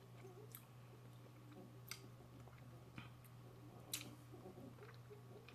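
Near silence with faint chewing and a few soft mouth clicks, spaced about a second apart, over a low steady hum.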